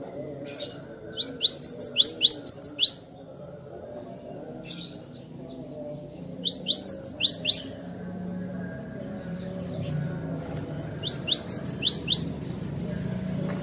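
Cinereous tit (glatik batu) singing: three loud bouts of quick, sharp rising notes, each a run of five to eight clear notes, about four seconds apart. Under them is a faint, low, steady background rumble.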